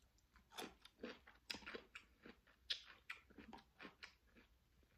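Close-miked chewing of raw cucumber: a string of faint, irregular crunches, about two a second.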